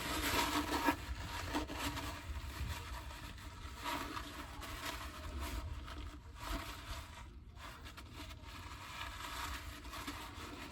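Faint, irregular scraping and rustling from hands and tools working in the open rear differential housing, over a low steady rumble.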